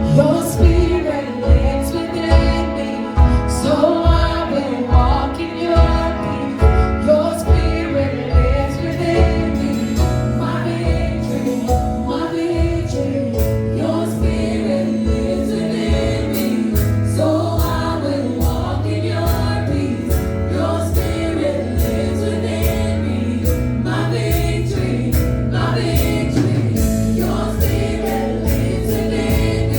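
Gospel singing by a church choir with band accompaniment. Drums keep a regular beat under a steady bass line, and the beat softens about halfway through while the singing and bass carry on.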